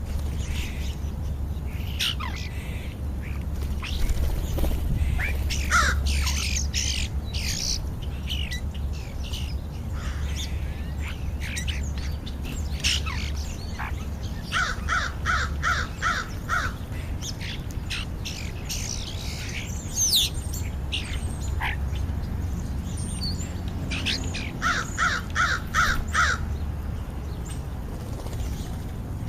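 American crows cawing in two runs of about five caws each, one near the middle and one near the end. Around them, European starlings whistle and chatter in short high calls, over a low steady hum.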